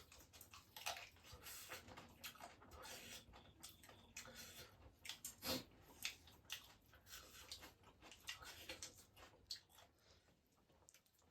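Faint eating sounds: soft chewing with irregular small clicks and squishes of food being eaten, thinning out near the end.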